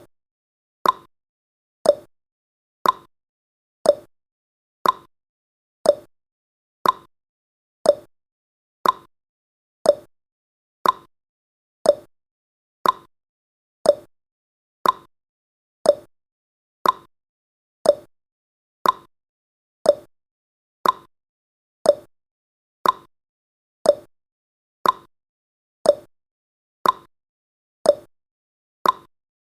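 Countdown timer's ticking sound effect: a short pop-like tick exactly once every second, evenly spaced and steady.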